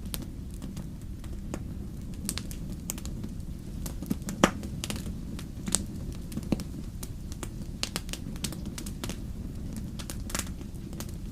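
Wood fire crackling: irregular sharp pops and snaps over a low steady rumble of the burning logs, the loudest pop about four and a half seconds in.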